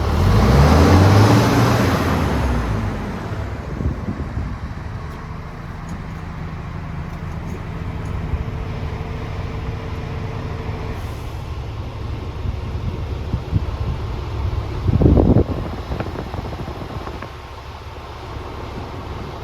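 Scania R500 truck's diesel engine revved once, its note rising and falling back within about three seconds, then idling steadily. A short loud burst about 15 seconds in.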